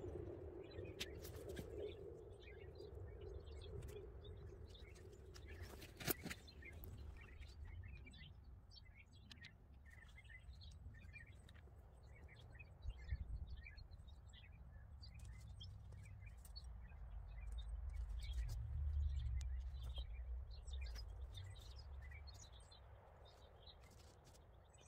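Small birds chirping and singing, many short high calls scattered throughout, over a low rumble that swells and fades about two-thirds of the way through. A single sharp knock about six seconds in.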